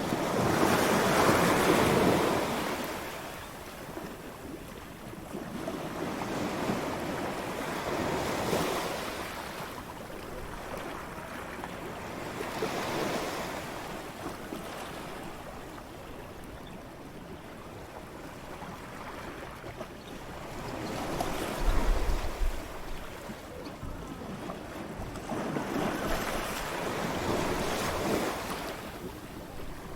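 Waves breaking on a beach in slow surges every four to six seconds, each swell of surf rising and washing away, with some low wind rumble on the microphone about two-thirds of the way through.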